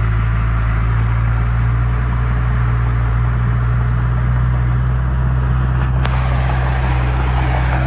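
Heavy diesel engine of a construction machine running steadily at a constant speed, with a single light click about six seconds in.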